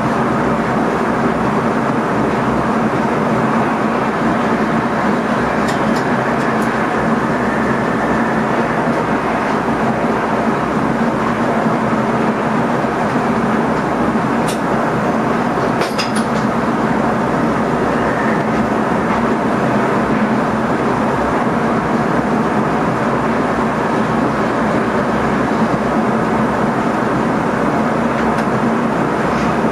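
Steady running noise heard inside the driver's cab of an NS ICM electric multiple-unit train on the move, with a steady low hum under it. A few sharp clicks come about six seconds in and again around fourteen to sixteen seconds in.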